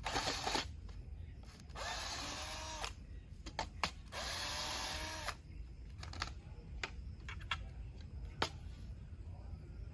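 Cordless drill-driver backing out screws: two runs of about a second each, the motor spinning up and holding, with small clicks and knocks of screws and parts being handled between them.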